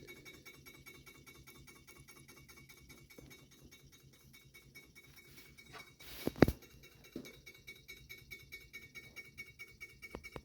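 1915 Heinrici hot-air (Stirling-type) engine running, its mechanism ticking in a quick, even rhythm, several ticks a second. A single loud knock about six seconds in.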